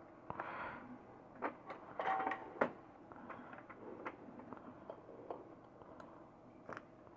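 Small clicks, taps and rustling scrapes of hands working on an LED light's parts, attaching the new panel's wires, with a sharper cluster of clicks about two seconds in.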